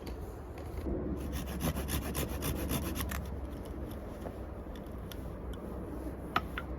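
Quick rhythmic scraping strokes on wood, about five a second for two seconds, then a few scattered scrapes and a sharp click near the end, over a steady low rumble.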